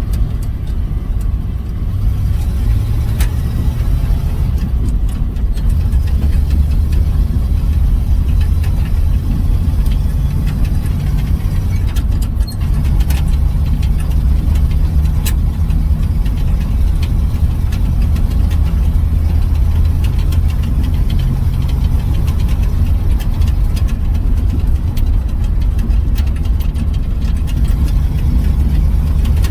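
1970 GMC pickup's engine running as the truck is driven, a steady low rumble with light ticks and rattles over it, running on a newly replaced mechanical fuel pump.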